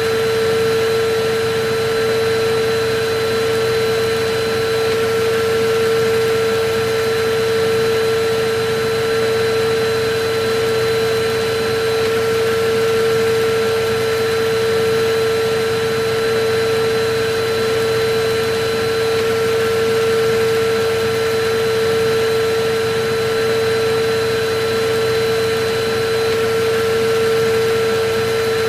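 Electric vacuum cleaner running steadily: a constant whine over a rushing hiss, swelling slightly in loudness every few seconds.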